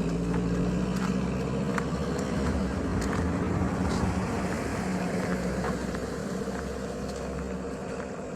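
A motor vehicle's engine running close by with a steady pitched drone, loudest through the first half and easing off over the last couple of seconds.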